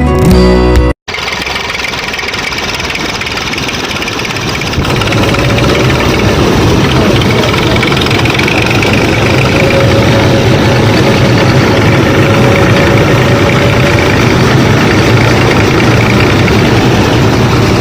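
Music breaks off about a second in. Then the small motor of a DIY miniature combine harvester runs steadily and gets louder about five seconds in.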